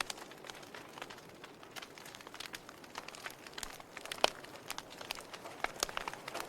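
Burning logs crackling in an open fireplace: irregular sharp pops and snaps over a soft hiss, with one louder pop a little after the middle.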